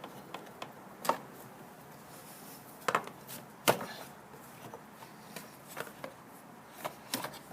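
Scattered sharp clicks and knocks, about half a dozen spread irregularly, from hand tools and parts being handled while the air intake hose is taken off a car engine.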